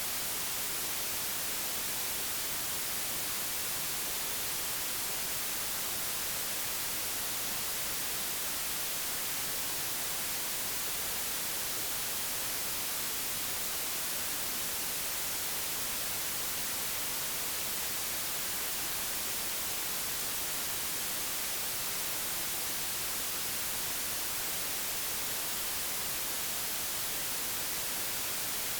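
Steady, digitally generated white noise: an even hiss across the whole range, unchanging throughout.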